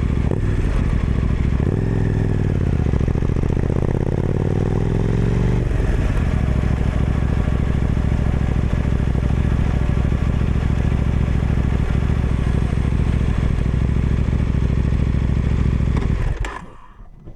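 KTM 990 Duke's parallel-twin engine running through an Austin Racing exhaust. The revs dip and then climb between about two and six seconds in, hold steady for a long stretch, and the sound cuts off about sixteen seconds in.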